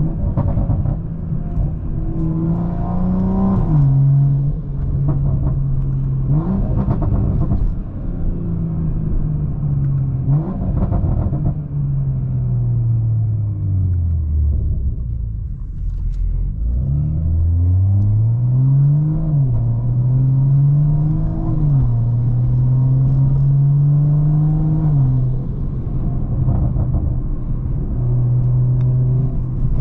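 BMW M340i's turbocharged 3.0-litre B58 straight-six, running a big Pure800 upgraded turbo, driven hard through the gears. The engine pitch climbs and then drops back at each upshift several times, sinks slowly around the middle as the car slows, then climbs through two more shifts and holds steady.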